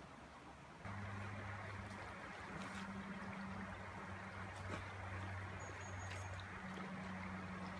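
River water running over a cobbled bed, with a steady low engine-like hum that starts abruptly about a second in. A few faint clicks and a couple of short high chirps sound over it.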